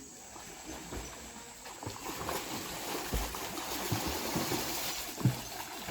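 Water splashing and trickling, with a few dull knocks, the loudest about five seconds in.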